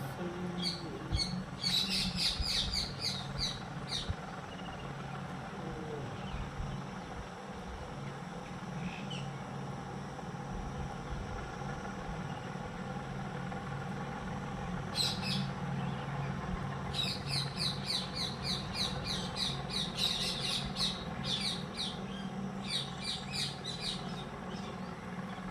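Small birds chirping in fast runs of short, high notes, several runs of a few seconds each, over a steady low hum.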